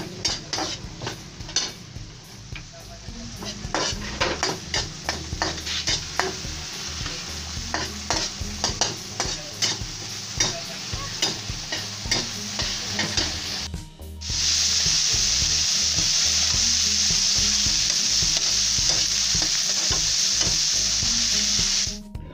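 Metal spatula scraping and clinking against a wok as chopped tomatoes, onion and garlic sizzle in oil, sautéed until the tomatoes soften and break down. About two-thirds of the way through, the stirring stops and a louder, steady sizzle carries on alone.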